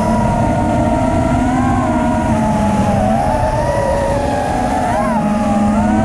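FPV racing quadcopter's motors and propellers whining, the pitch wavering and gliding up and down with the throttle, over a steady rumble. There is a quick rise in pitch about five seconds in, and another just before the end.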